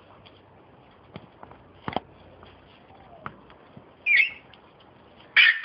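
Parrots in an aviary: a few faint clicks and knocks, then a short loud squawk about four seconds in and another loud squawk starting near the end.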